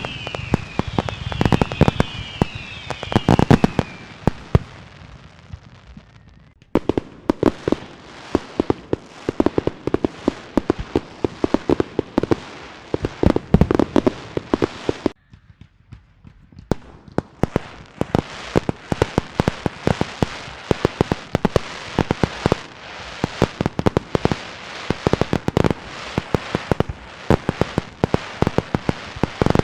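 Fireworks and firecrackers going off in dense, rapid strings of sharp bangs and crackles. A few short falling whistles sound in the first few seconds. The bangs drop out briefly twice, about six and fifteen seconds in.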